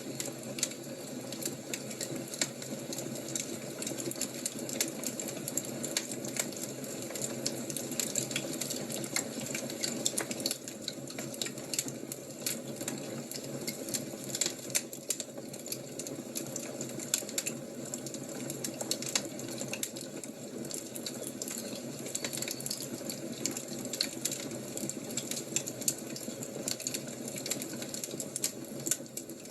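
Fire crackling, with frequent irregular sharp pops and snaps over a steady low rushing noise.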